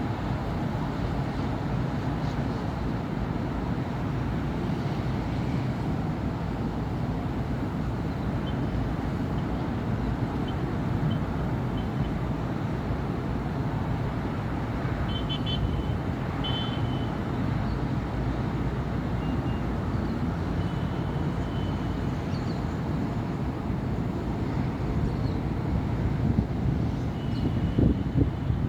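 Steady city road traffic: a continuous low rumble of car engines and tyres on the road, with a few faint, short high-pitched chirps scattered through it and a couple of louder passing vehicles near the end.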